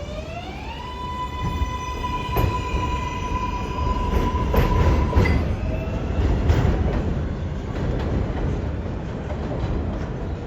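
R188 subway train on the 7 line accelerating: its electric propulsion whine rises in pitch over the first second, then holds steady for a few seconds before dropping away, with the train's rumble and wheels clacking over rail joints.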